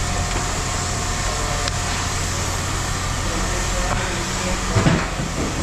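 A steady engine running, a constant low rumble and hum, with a brief voice near the end.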